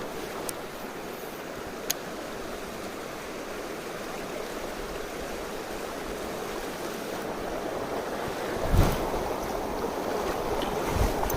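Mountain stream rushing steadily over rocks. A sharp click about two seconds in, and a low thump near the end that is the loudest sound.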